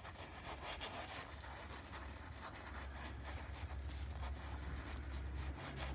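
Paintbrush working paint onto the painting in many quick, scratchy strokes, over a low steady hum.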